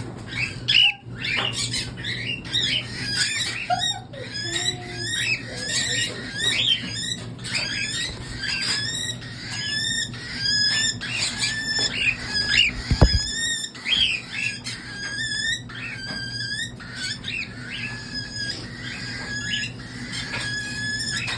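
Baby cockatiel chicks giving a continuous chatter of short, rapidly repeated begging chirps as they look for food, with one low thump about halfway through.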